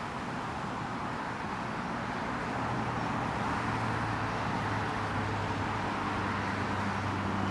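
Distant jet airliner engines, a United Boeing 777-200ER arriving on approach: a steady rumble that slowly grows louder, with a low hum coming in after a few seconds.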